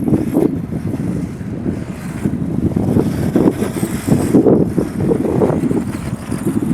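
Wind buffeting the microphone in uneven gusts, over a battery-powered radio-controlled short course truck driving.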